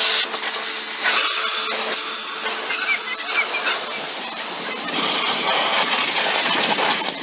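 Pressure washer spraying water onto a mini tractor, a steady loud hiss, with a faint hum from the washer's motor in the first second or so.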